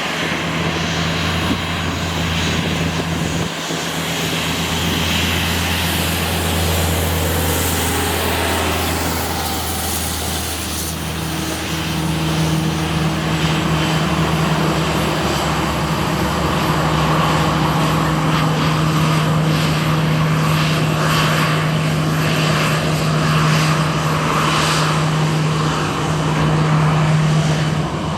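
Airliner jet engines running with a loud, steady drone and a low hum whose pitch shifts about eleven seconds in.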